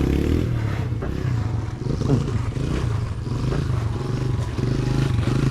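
Motorcycle engine running, its revs rising and falling slightly.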